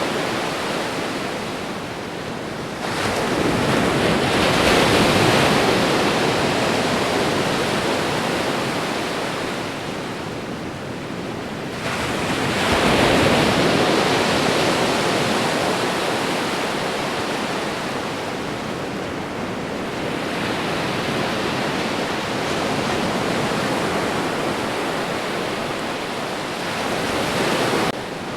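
Ocean waves breaking on a shore: continuous surf with two swells building about 3 seconds and 12 seconds in, then washing back between them.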